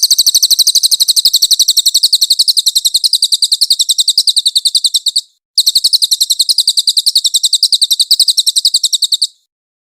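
Cililin singing its rapid-fire 'nembak' song: a fast, high-pitched trill of about ten notes a second, breaking off briefly about five seconds in, then resuming and stopping shortly before the end.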